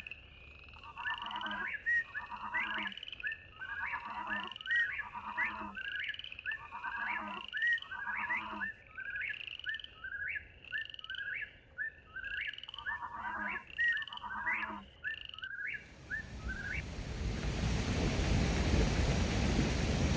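Frogs calling in a steady rhythm, about one call a second, each with a short rising note. About sixteen seconds in, the calls stop and a steady rushing noise takes over, growing louder toward the end.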